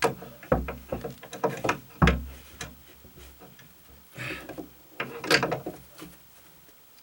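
A wrench clicking and knocking on a nut and bolt of a metal strong-tie bracket as the nut is checked for tightness. It is a scatter of short clicks and scrapes, the loudest knock about two seconds in, and a few more clicks a couple of seconds later.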